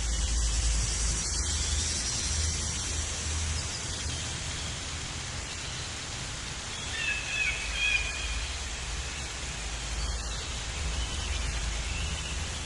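Steady outdoor hiss with a low rumble, and a few short bird calls a little past the middle.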